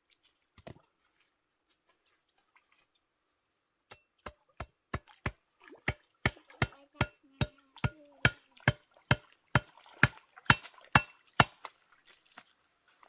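A blade chopping on wood: a steady run of about twenty strikes, roughly three a second, starting a few seconds in, growing louder, then stopping shortly before the end.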